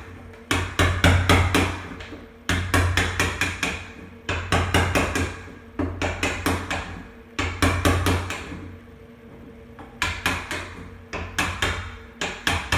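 Hammer striking a chisel to cut out a shallow handle recess in a door: quick bursts of several sharp taps, with short pauses between bursts.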